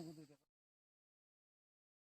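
The tail of a spoken word over steady insect chirring, both cut off abruptly about half a second in, then complete silence as the audio ends.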